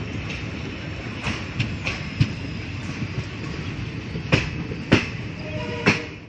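Passenger express train running, heard from inside a coach doorway: a steady rumble of the coaches with irregular sharp clicks of the wheels crossing rail joints.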